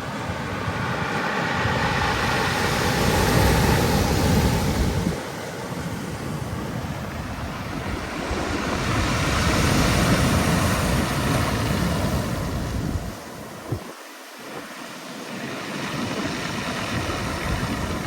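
Black Sea waves washing onto the shore, the surf swelling and fading in slow surges, with wind rumbling on the microphone.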